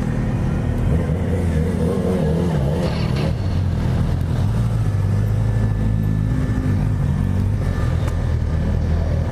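Motorcycle engines running steadily at low revs amid many bikes.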